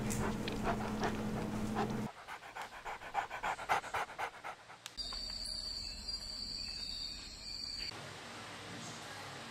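A small dog panting in quick, even breaths, about five a second at its fastest. The sound changes abruptly every two to three seconds as short clips are cut together.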